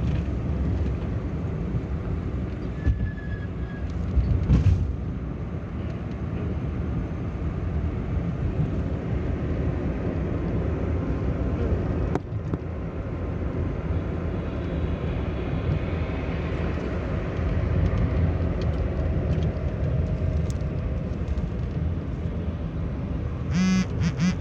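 Car driving with a steady low rumble of engine and road noise. A brief nasal honk-like call sounds near the end.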